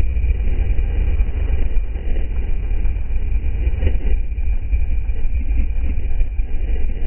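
Steady rumble of a motorcycle on the move: wind noise and engine drone, heaviest in the low end.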